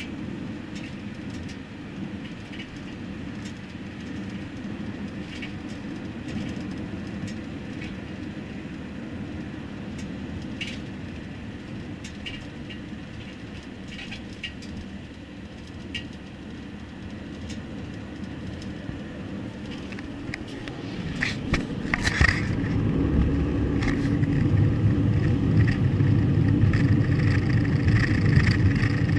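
A car driving, with steady engine and road noise and a few faint clicks. The rumble grows noticeably louder about two-thirds of the way through.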